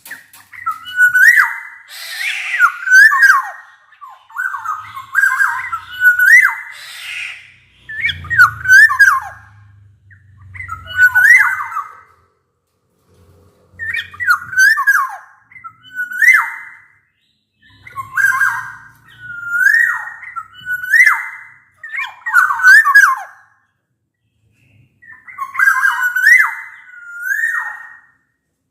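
Black-naped oriole calling over and over: loud, short whistled phrases that swoop up and down, about one every second or two, with a couple of short pauses.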